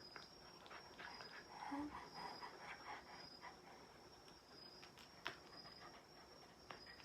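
Faint sounds of a Shiba Inu close by, breathing and moving, with a few light clicks, the sharpest about five seconds in.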